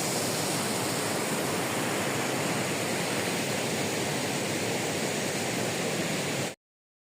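Rushing water of a mountain river or waterfall, a steady even noise that cuts off suddenly near the end.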